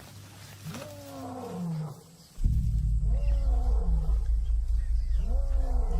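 Lion roaring: three long calls that each rise then fall in pitch, a territorial roar warning other lions off. A deep, steady low drone cuts in about two and a half seconds in and runs under the later calls.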